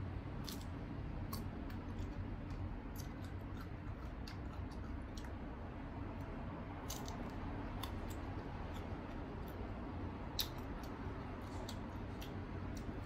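Chewing and biting crisp unripe green mango, with irregular sharp crunching clicks, the sharpest about ten seconds in, over a steady low hum.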